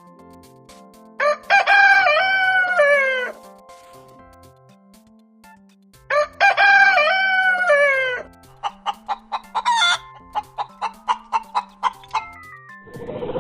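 Rooster crowing twice, each crow about two seconds long with a falling end, then a chicken clucking in a quick series of about four clucks a second.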